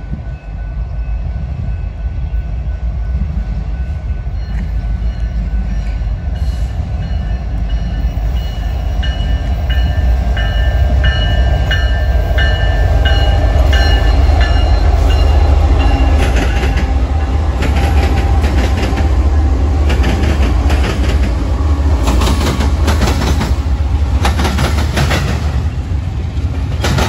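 Union Pacific diesel freight locomotives rumbling, getting louder as they approach and pass close by. Once the locomotives are past, about halfway through, double-stack container well cars roll by with fast, repeated clicking and clacking of wheels over the rail joints.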